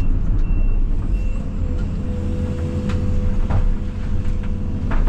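Case CX220E excavator running steadily under work, with a high alarm beeping in even pulses during the first second or so. A steady whine comes in after that, and there are a few sharp knocks.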